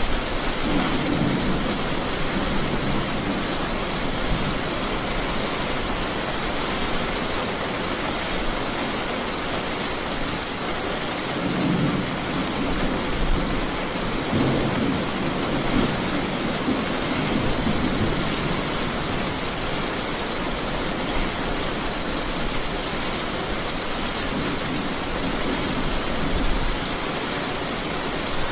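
Steady hiss of heavy rain, with low thunder rumbling through it several times: near the start, again for a few seconds in the middle, and once more near the end.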